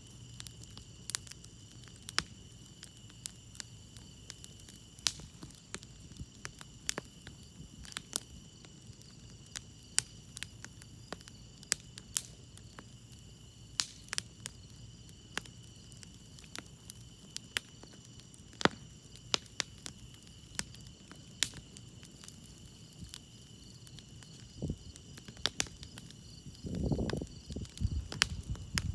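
Wood campfire crackling with irregular sharp pops, over a steady chorus of crickets chirping. A louder, muffled low burst comes near the end.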